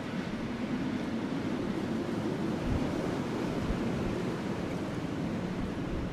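Strong snowstorm wind blowing steadily, a deep, even rush with a couple of brief low buffets about three seconds in.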